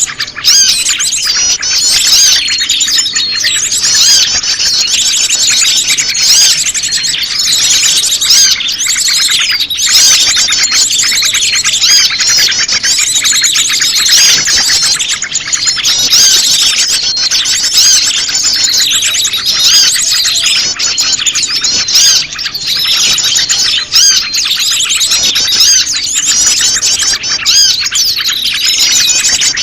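Bird-lure recording of prenjak lumut calls layered with a dense chorus of other small birds, chirping and trilling rapidly and without a break.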